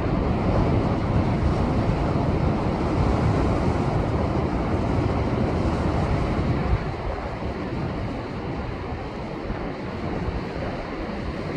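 Heavy ocean surf breaking and surging against shoreline rocks, with wind buffeting the microphone. The rush of water is loudest in the first two-thirds, then eases after a sharp surge about seven seconds in.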